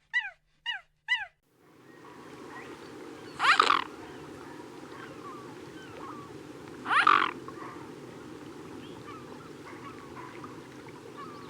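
A dog yips three times, short high calls falling in pitch, then stops. Outdoor background sound with faint bird chirps follows, and two loud animal calls come about three and a half seconds apart.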